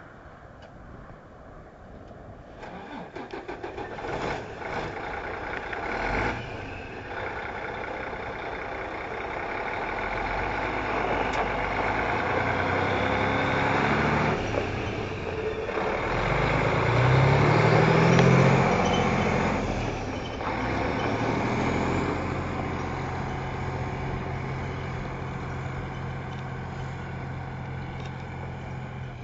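2006 Sterling truck tractor's diesel engine cranking and starting. It revs up briefly about halfway through, then settles into a steady idle.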